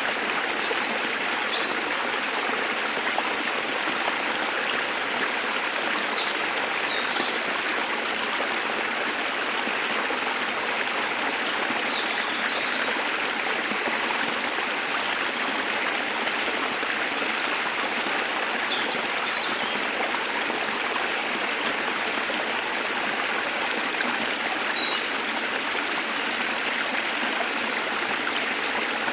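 A small waterfall splashing and flowing steadily, with faint, scattered high bird chirps over the water noise.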